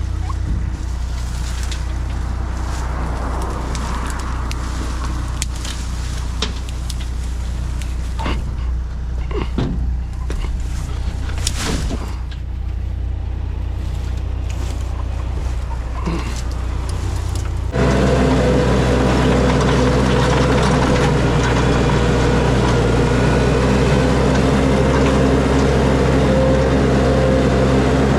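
Mini skid steer engine running steadily at low throttle, with scattered knocks and clicks. About two thirds of the way through it is suddenly throttled up, running louder with several steady higher tones.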